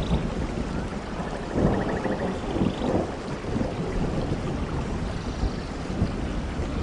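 Steady heavy rainfall, with a low rumble underneath that swells louder about one and a half to three seconds in.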